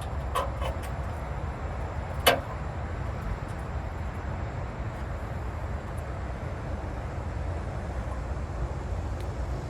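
A few light clicks and one sharp click a little after two seconds, parts being handled on the car, over a steady low rumble.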